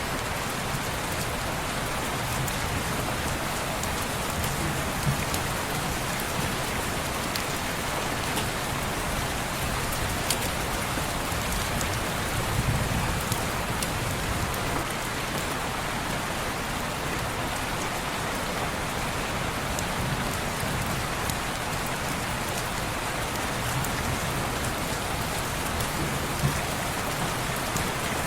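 Steady rain falling on window glass, an even hiss with scattered sharp drop clicks.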